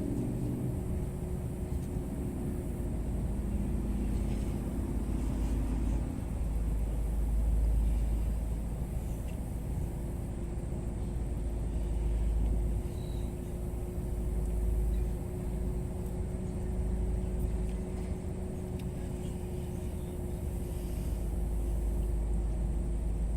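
Low, steady vehicle rumble that swells and eases, with a faint steady hum over it.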